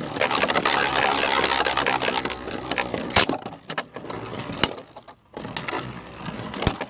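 Beyblade spinning tops whirring and grinding in a plastic stadium, loudest for the first few seconds and then dying down, with sharp clacks as the tops strike each other several times.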